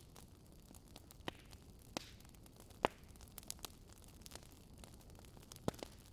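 Fireplace crackling: scattered sharp pops over a faint steady hiss, the loudest pop about three seconds in and a quick pair near the end.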